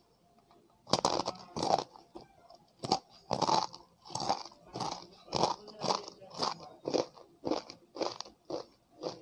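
Crisp fried chegodilu, Telugu rice-flour rings, being bitten and chewed with the mouth. About a second in there is a loud crunch, then steady crunching chews about two a second.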